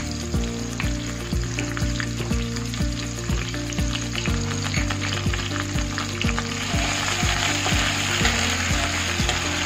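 Hot oil sizzling in a kadhai as ginger paste and chopped tomatoes fry, the sizzle growing louder in the last few seconds. Background music with a steady beat plays underneath.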